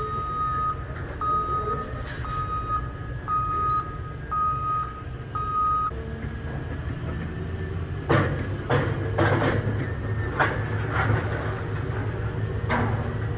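Heavy scrap-yard machinery running with a steady low rumble while a reversing alarm gives six beeps about a second apart. From about eight seconds in comes a run of sharp metallic bangs and clanks from scrap metal being handled in the shear baler.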